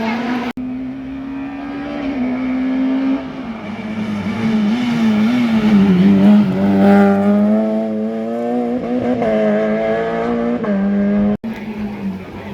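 Rally car engine held at high revs on a special stage, its pitch dipping and climbing with gear changes and throttle, loudest near the middle as the car comes close. The sound breaks off sharply about half a second in and again near the end.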